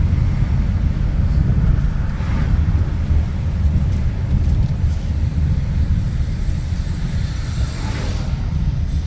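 Low, uneven rumble of wind buffeting the microphone, mixed with road and traffic noise from riding through city streets. A hiss swells briefly about two seconds in and again near eight seconds.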